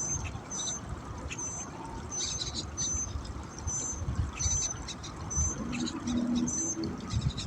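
A bird repeating a short, high chirp about every three-quarters of a second, over a low rumble.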